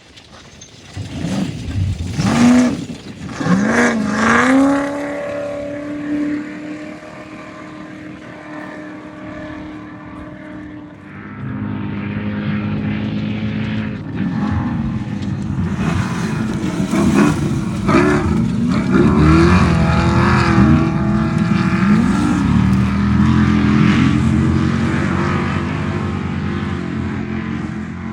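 Off-road race vehicle engines revving hard as they pass. A loud burst of rising and falling revs comes in the first few seconds, then fades to a steadier drone. From about twelve seconds in, the engine noise swells again with repeated quick rises and falls in pitch.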